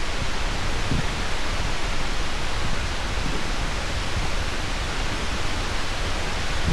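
Steady rushing noise of wind and water around an open boat, with a deep rumble underneath and no change in level.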